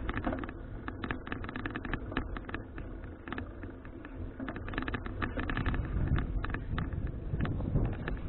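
Riding a folding bicycle: a steady low rumble of wind and road on the action-camera microphone, with many irregular clicks and rattles from the bike as it rolls.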